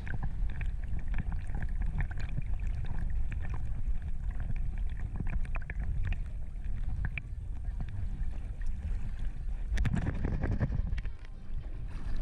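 Wind rumbling on the microphone, with scattered faint clicks and a louder rush of noise about ten seconds in.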